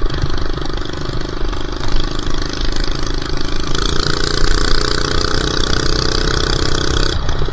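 An old minibike's small four-stroke engine running under throttle. About halfway through it picks up, its pitch rising slowly, then drops off abruptly just before the end.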